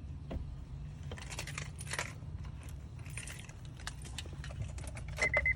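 Keys jingling in short clusters of light metallic clicks over a steady low hum, with a rapid high beeping starting near the end.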